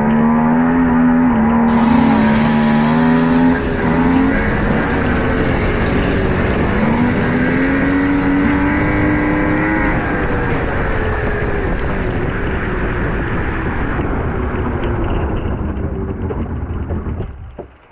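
Suzuki Jimny off-road 4x4's engine revving hard under load on a competition stage, its pitch rising and falling repeatedly as the driver works the throttle. The engine note evens out and fades, dropping away sharply near the end.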